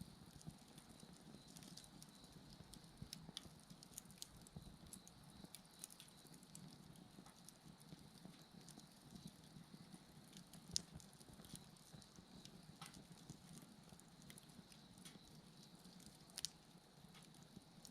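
Wood fire crackling faintly, with scattered small pops and two sharper pops, about eleven and sixteen seconds in. Insects chirp steadily underneath.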